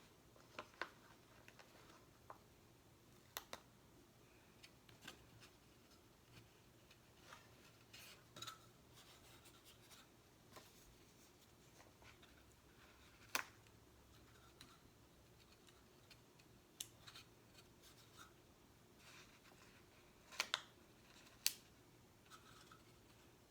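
Faint handling of stickers and a sticker box: scattered sharp little clicks and taps with soft crinkles of sticker sheets, a few louder clicks in the middle and near the end.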